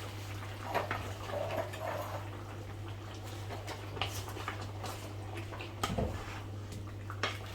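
A steady low hum with a few faint clicks and light knocks, typical of utensils or a lid handled on a stovetop pot.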